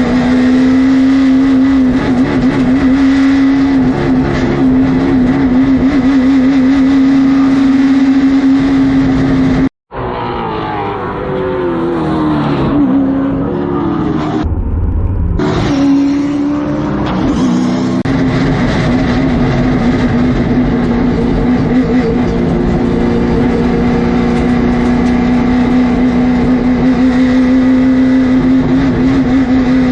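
Late model stock car's V8 engine heard onboard at speed, holding steady high revs. Just before ten seconds the sound cuts out briefly; then the revs drop and climb back over several seconds before settling at a steady high pitch again.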